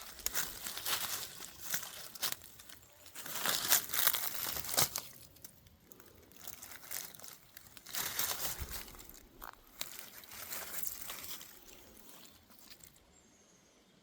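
Irregular crinkling and crackling in uneven clusters, as of something dry being handled or crushed, dying away near the end.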